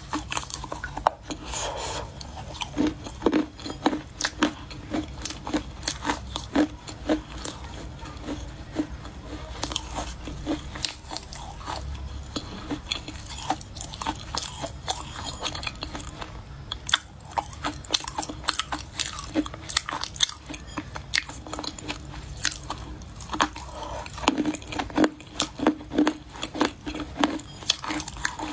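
Close-miked crunching of baked Chinese clay being bitten and chewed: a long run of sharp, brittle crunches, several a second.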